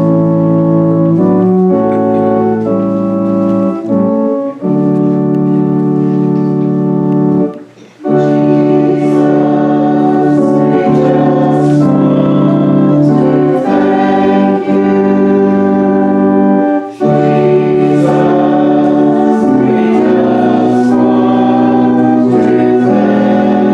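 Church organ playing held chords that change every second or so, with a short break about eight seconds in.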